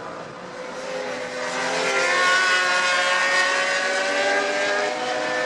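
Racing motorcycle engines running at high revs on track, getting louder over the first couple of seconds and then holding a steady, high-pitched note.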